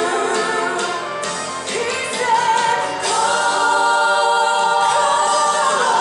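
Congregational worship singing with accompaniment: voices holding long sung notes over music.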